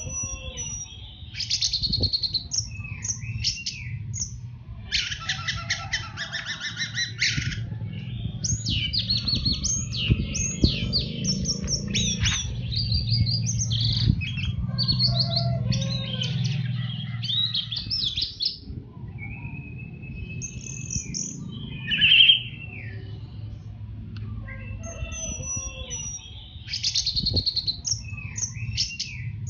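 Orange-headed thrush singing a long, varied song of clear whistles and rapid trills in quick succession, with a couple of short pauses, over a low steady background hum.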